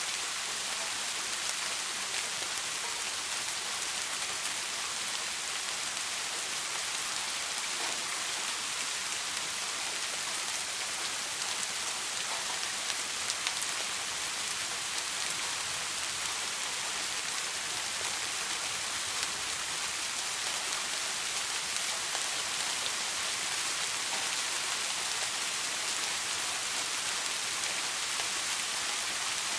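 Steady soft rain, an even hiss of rainfall with scattered drops pattering on a surface.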